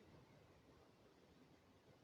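Near silence: faint steady background hiss, with no distinct sound.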